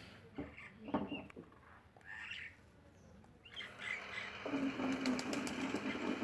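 Pet parrot giving short chirps, with a few clicks and light rustles. About four seconds in, a steady drone with a low hum starts up and becomes the loudest sound.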